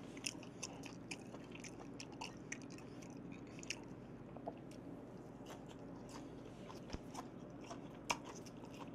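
A person chewing food, a scatter of faint, soft mouth clicks.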